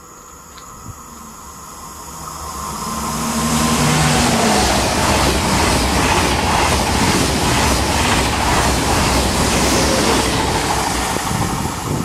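TGV high-speed train passing at speed. It grows from a faint approach to a loud rush of wheels and air about four seconds in, with an even rapid beat as the bogies go by. It eases off near the end.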